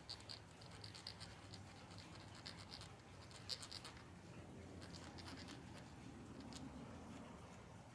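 Faint, irregular scratching and small clicks as anti-seize compound is dabbed and spread onto the threads of a wire-brushed screw.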